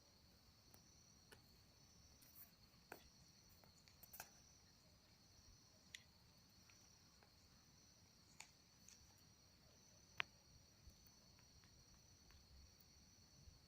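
Faint, scattered crackles and sharp pops from a wood bonfire, the loudest pop about ten seconds in, over a steady high chirring of crickets.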